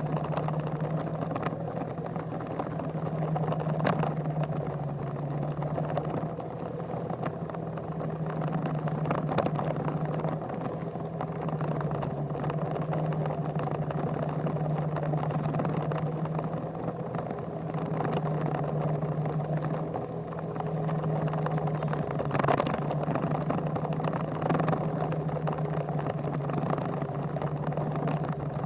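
An engine running steadily with an even hum, with a few short clicks over it.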